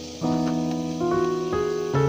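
Background piano music: sustained chords, with new notes struck about a quarter of a second in and again around one second and near the end.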